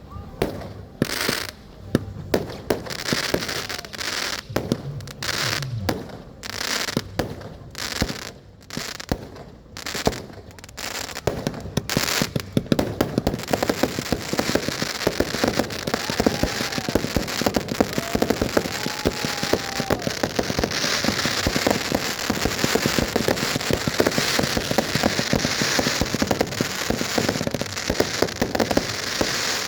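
Firecrackers and fireworks going off: separate sharp bangs about a second apart at first, then from about twelve seconds in a dense, continuous rattle of rapid cracks like a long string of firecrackers.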